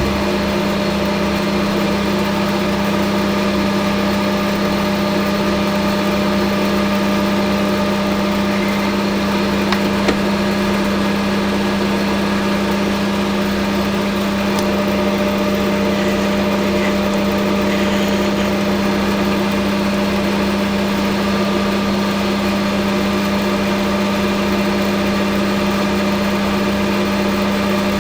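Hafco Metal Master AL960B metal lathe running at a steady speed with a constant hum from its motor and drive, while taking a light finishing cut along the side of the workpiece. A single small tick about ten seconds in.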